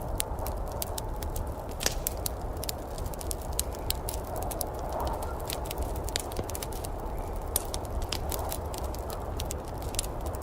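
Wood fire in a fireplace crackling, with frequent sharp pops and snaps, over a steady low wash and rumble of storm ambience.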